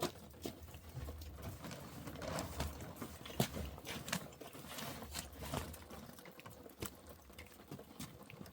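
A series of irregular knocks and clicks over a low rumble.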